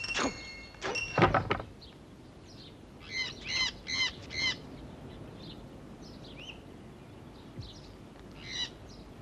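A bell's ringing dies away in the first second and a half, with a second strike about a second in. Then a bird calls four times in quick succession, followed by scattered fainter chirps.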